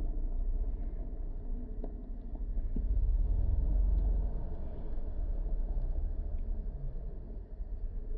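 Low engine rumble from cars running, louder for a few seconds around the middle.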